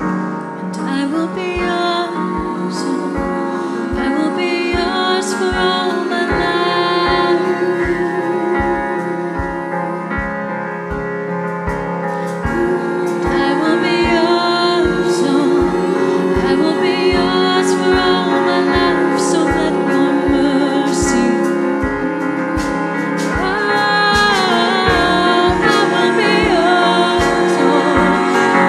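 Live worship music: a female lead singer with a choir, backed by a band over a steady kick-drum beat with occasional cymbal crashes.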